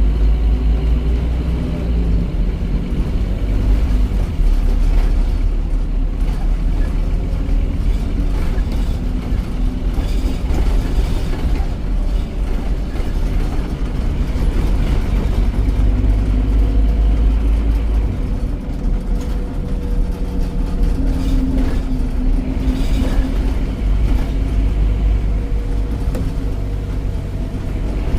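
Scania OmniCity double-decker bus's 9.3-litre DC9 diesel engine running under way, a heavy low rumble whose note rises and falls as the bus accelerates and eases off.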